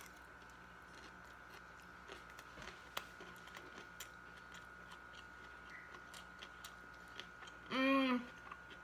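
Quiet chewing of a mouthful of vegetable fried rice, with small clicks of a metal spoon against a ceramic bowl. Near the end, a short hum from the eater's voice, about half a second long, is the loudest sound.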